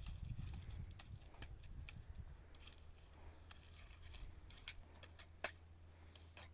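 Faint scattered clicks and taps over a low rumble, with one sharper knock about five and a half seconds in.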